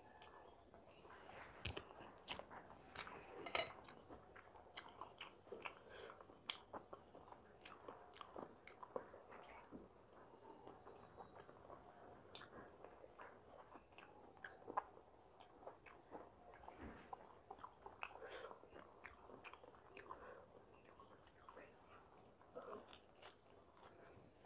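Close-miked eating: a person biting and chewing food, with irregular wet mouth clicks and smacks and occasional crunches.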